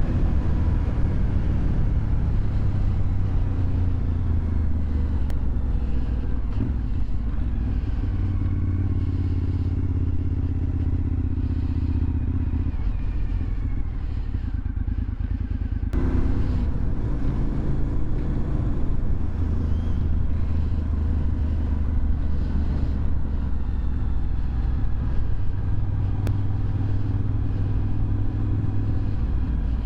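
A 2001 Suzuki TL1000R's 90-degree V-twin engine runs through a LeoVince aftermarket exhaust while the bike is ridden, its note rising and falling with the throttle. About halfway through the engine eases off for a couple of seconds, then picks up again suddenly.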